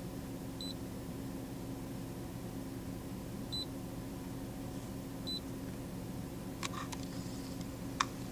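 Three short high-pitched beeps a couple of seconds apart from an iCarsoft i950 diagnostic scan tool as its keys are pressed, over a steady low hum. A few clicks follow near the end, one sharper than the rest.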